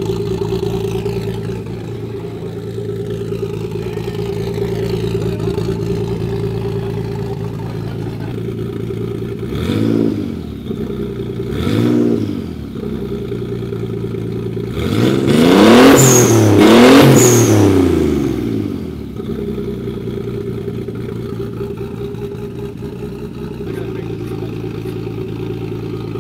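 Toyota Supra MKIV's twin-turbo 2JZ-GTE straight-six, on GSC S1 cams with an HKS titanium exhaust, idling, with two short throttle blips and then two longer revs in quick succession before it settles back to idle.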